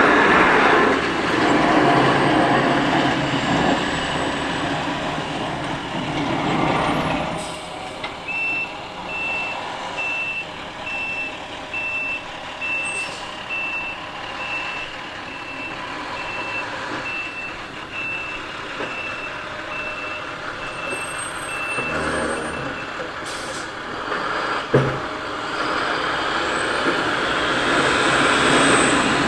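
Dump-truck snowplow running loud, then its reverse alarm beeping steadily about once a second for some fifteen seconds as the truck backs up. A single sharp knock comes near the end, and the truck noise swells again in the last few seconds.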